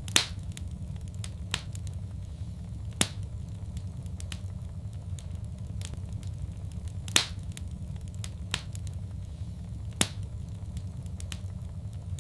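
Fireplace fire crackling: a steady low rumble of the flames with scattered sharp pops, four of them louder than the rest, about three seconds apart.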